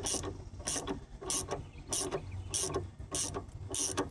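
Hand ratchet wrench clicking in short, even strokes, about one and a half a second, turning a nut or bolt on the engine mount.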